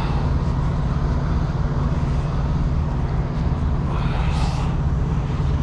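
A heavy engine idling steadily, a continuous low rumble, with a brief hiss about four seconds in.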